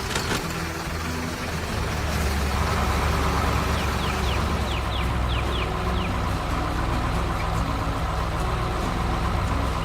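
Cartoon soundtrack: background music with held low notes over a steady engine-like rumble, and a quick run of short chirps about halfway through.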